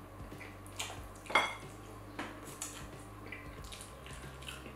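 Close-miked eating of suya chicken wings: a string of short clicks and clinks among dishes, the loudest about a second and a half in.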